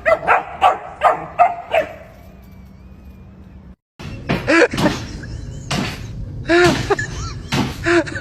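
A dog barks about six times in quick succession, roughly three barks a second, then stops after about two seconds. After a brief cut, a busier stretch of short cries that rise and fall in pitch follows.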